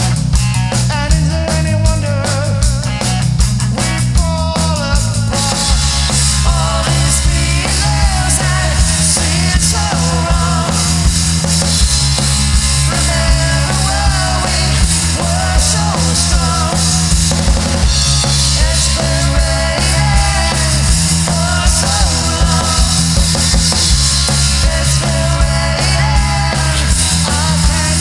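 Live rock band playing, with a drum kit and a bass line under a bending melody line. The cymbals grow louder about five seconds in.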